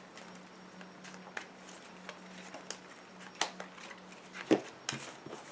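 Scattered light clicks and taps of trading cards being handled and laid on a table, over a low steady hum.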